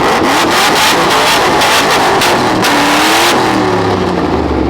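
V8 muscle car engine revving hard with a loud hiss of tyre noise, which drops away about three and a half seconds in as the engine note falls.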